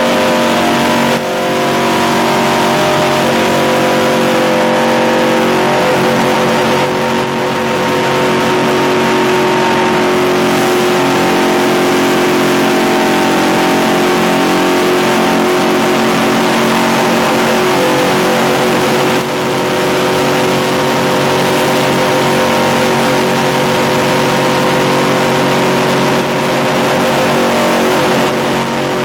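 NASCAR race truck's V8 engine running loud and steady at high revs, heard from inside the cab, with brief dips in loudness several times as the throttle eases.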